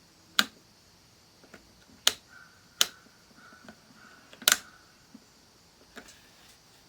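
Sharp clicks from handling a Micronta analog multimeter: four loud ones at irregular spacing, the last a quick double click, then a weaker one.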